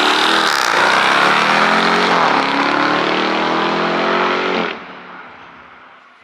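A car accelerating hard away from a standstill, its engine climbing in pitch, dropping at two quick gear changes and climbing again, then cutting off sharply and fading as it drives off.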